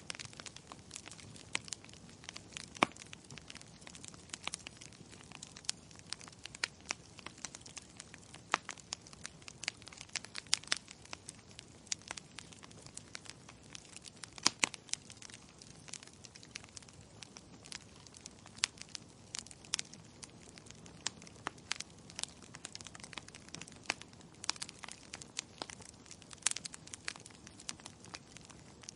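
Wood logs burning in a fireplace, crackling with frequent irregular pops, a few much louder than the rest, over a soft steady hiss.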